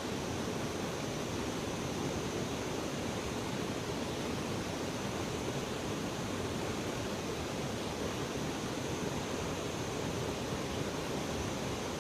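Steady rushing of flowing river water, an even noise that holds unchanged throughout.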